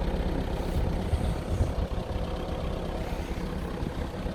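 A 2010 Skoda Octavia's 1.6 TDI four-cylinder diesel idling steadily.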